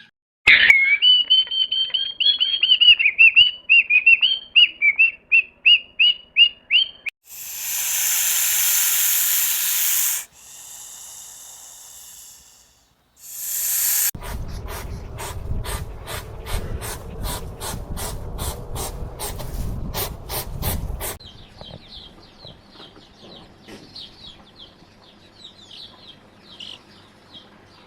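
A small bird chirping, a run of short, high, repeated notes, followed by a loud hiss lasting about three seconds. Then comes a rapid series of clicks over a low rumble, and faint chirping near the end.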